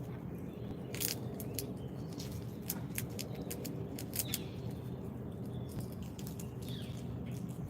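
Sharp, irregular clicks and taps of animals feeding on seed at a backyard feeder, most of them in the first half, over a steady low background rumble. A couple of faint short bird chirps come later.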